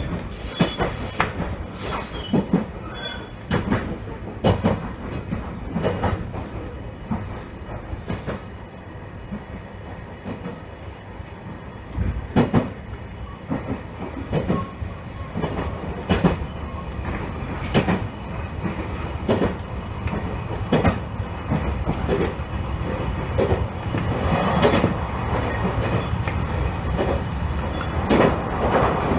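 JR Ban'etsu West Line train running along the track: a steady rumble, with the wheels clicking over rail joints every second or two, and the running noise swelling a little near the end.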